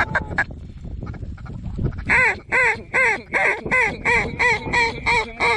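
A mallard duck call blown in a long, loud string of evenly paced quacks, about two and a half a second, starting about two seconds in. Before that, low rustling and a few clicks.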